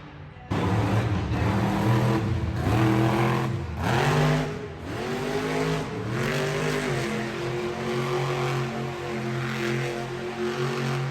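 Monster truck engine cutting in loud and revving, its pitch dipping and climbing several times, then holding at a steady high run for the last few seconds.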